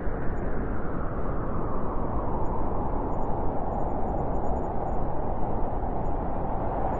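Wind blowing steadily, a continuous rushing whoosh whose pitch sinks slowly over several seconds.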